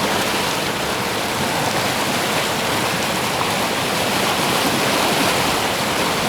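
Fast mountain river rushing through foaming white-water rapids, a loud, steady noise of churning water.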